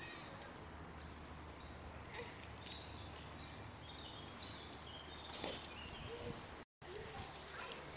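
A small bird repeats a thin, high call about once a second. About five seconds in, a crow takes off from the bench with a burst of wingbeats.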